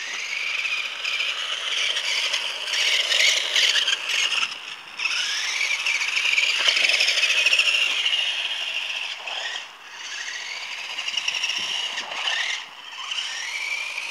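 Electric RC car motor whining at high pitch, rising each time the car accelerates and cutting out briefly a few times between runs.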